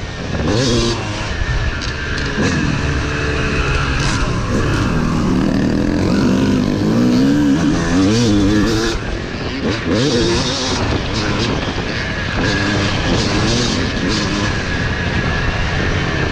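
Dirt bike engine being ridden hard, its pitch climbing and dropping again and again as the throttle is worked, over a steady rush of noise.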